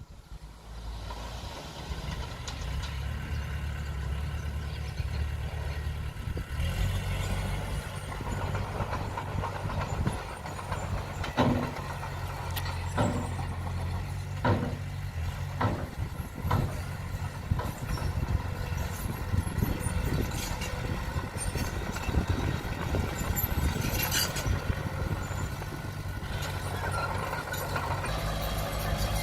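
Komatsu D20P bulldozer's diesel engine running, its pitch shifting a few times as the revs change. A series of sharp knocks comes about halfway through.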